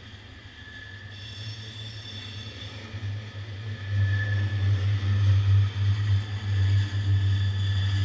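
Norfolk Southern mixed freight train's tank cars and covered hoppers rolling slowly past on the rails: a steady low rumble that grows louder about halfway through, with faint high-pitched tones over it.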